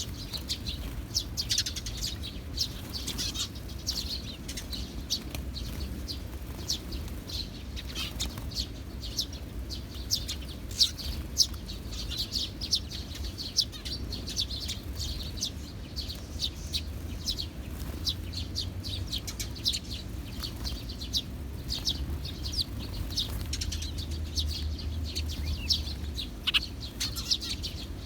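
Sparrows chirping continuously, many short, high chirps overlapping one another, over a steady low rumble.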